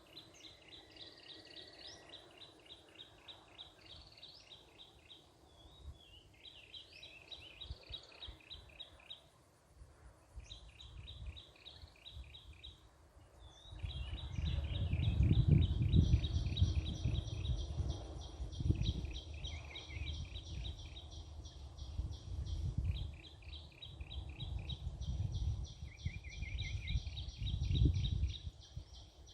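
High, rapidly pulsed chirping of birds and insects in repeated trains a few seconds long, with a few short sliding calls. From about halfway through, a low rumble comes and goes under it and is the loudest sound.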